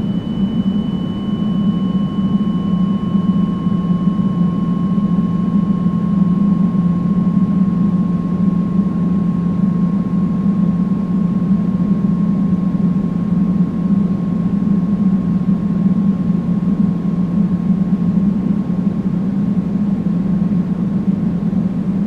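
Steady, deep, even pink-style noise, heavy in the low end, with no change in level. Over it, two pure tones from a chime struck just before ring out: the higher one fades away within the first several seconds, and the lower one lingers faintly.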